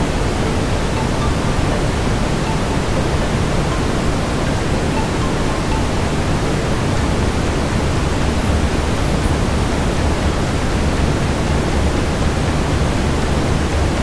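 Steady brown noise: an even, deep hiss heaviest in the low end, holding the same level throughout.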